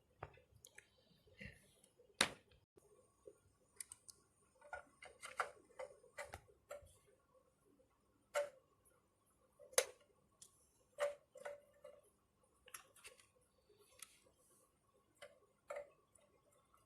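Irregular clicks and taps of small parts being handled and fitted while a vacuum cleaner motor is put back together, with two sharper knocks, one about two seconds in and one near the middle.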